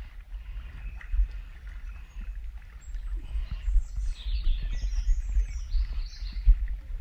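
Small birds chirping in a series of short high calls from about three seconds in, over a steady low rumble.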